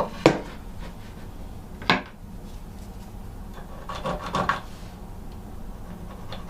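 Two sharp knocks on a wooden surface, then a short spell of rubbing and light clatter about four seconds in, as tools and parts are handled on a wooden countertop.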